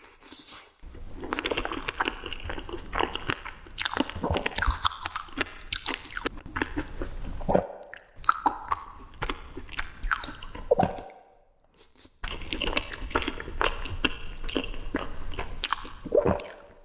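Close-up chewing and biting of sweets: dense, irregular mouth sounds, broken by two short silences about eight and eleven seconds in.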